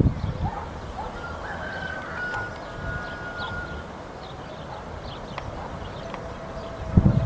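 Birds calling: short chirps and a held whistle-like note over a low, steady rumble. A loud rush of low noise sets in near the end.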